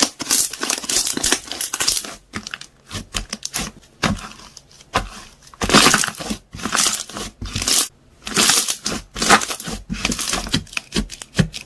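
Foam-ball slime being squished and pressed by hand, crackling and popping with trapped air bubbles and foam beads. It comes in repeated bursts of dense crackle, each about a second long, with short pauses between.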